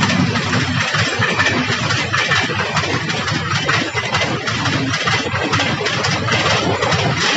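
Local multiple-unit passenger train passing close by, its coaches' wheels clattering rapidly over the rail joints over a steady low running rumble.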